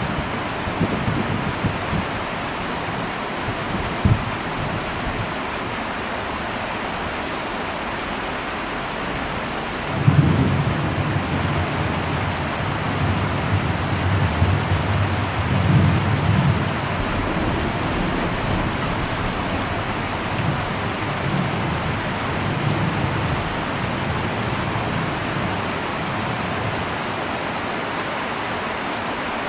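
Heavy rain falling steadily on an old metal roof, with a single sharp tap about four seconds in. About ten seconds in a low thunder rumble breaks in suddenly, rolls on for over ten seconds and slowly fades.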